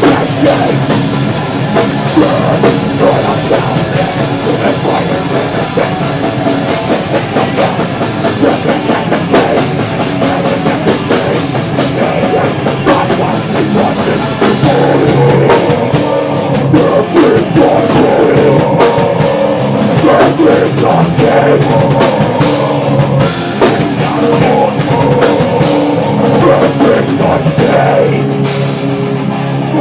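Live thrash/death metal band playing an instrumental passage: distorted guitars, bass and fast drum kit, loud and continuous.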